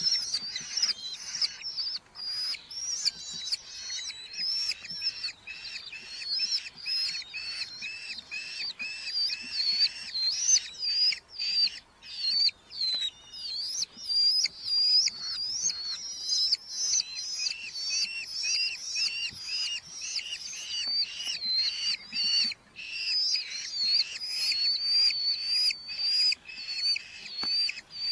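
Red-footed falcons calling: a fast, unbroken series of shrill calls that rise and fall, about two to three a second.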